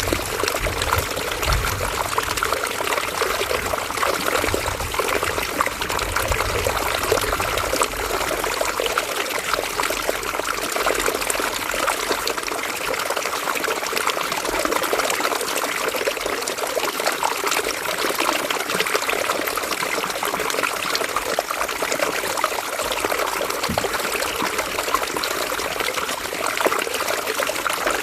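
River water running and trickling over stones, a steady babbling flow.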